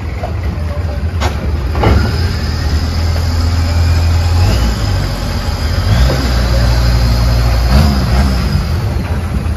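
A boat engine runs steadily, with sharp knocks a little over one second in, again about two seconds in, and once more near the end.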